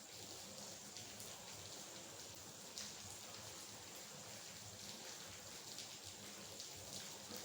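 Steady light rain hissing, with scattered individual raindrops ticking and one slightly louder drop about three seconds in.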